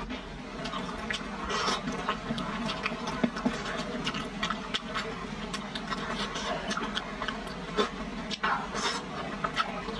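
Close-miked eating of chili-oil-coated potato flour noodles: wet chewing and slurping, with frequent sharp clicks of wooden chopsticks against the wooden plate.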